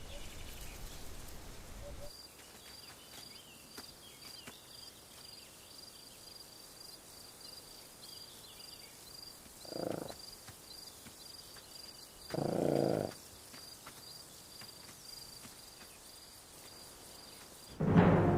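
An insect chirping, high-pitched and even, about twice a second, with two short low calls from a Przewalski's horse about ten and twelve and a half seconds in, the second longer. Music comes in at the very end.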